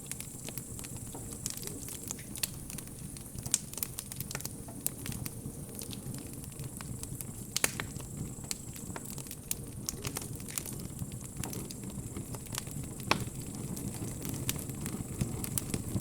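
Wood bonfire crackling, with frequent irregular sharp pops, a few much louder than the rest, over a steady low rumble of the flames.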